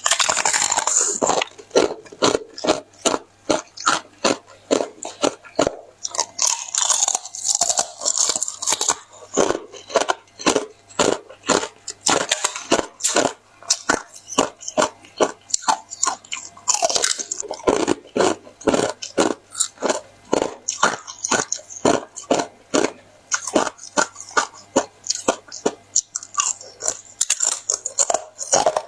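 Hollow pineapple ice being bitten and chewed close to the microphone: a rapid, steady series of crisp, loud crunches as the ice cracks between the teeth.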